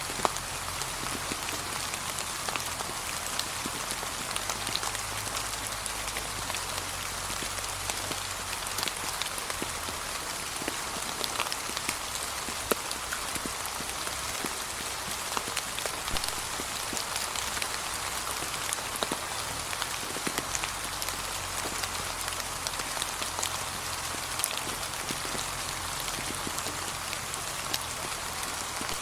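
Steady light rain falling on a surface, with a continuous patter and many separate drop ticks scattered throughout.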